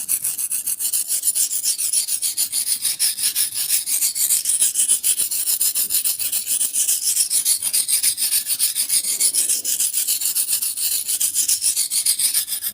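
A blade being sharpened on an abrasive surface, scraped in quick, even back-and-forth strokes with a harsh, hissing rasp. It stops abruptly at the end.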